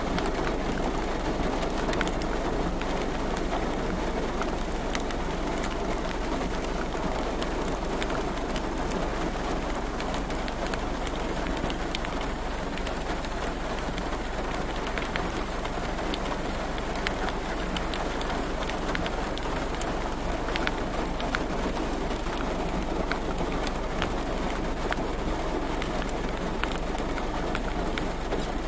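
Steady rain falling, with many sharp drops tapping on a nearby surface.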